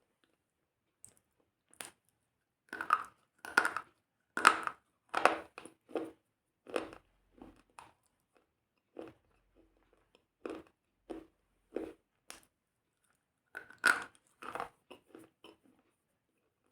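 Crisp crunching in short, irregular bursts with silent gaps between, loudest a few seconds in and again near the end.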